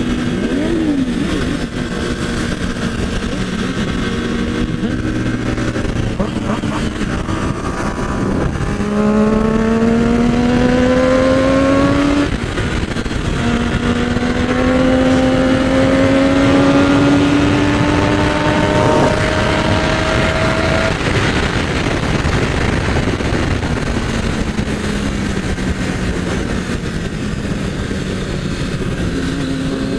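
Sport motorcycle engine pulling up through the gears. The engine note climbs, drops at a gear change about twelve seconds in, climbs again, then falls as the rider eases off in the last third, all under steady wind rush on the rider's microphone.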